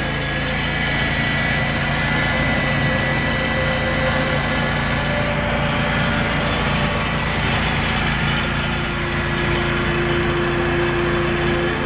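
Chainsaw's small two-stroke engine running steadily.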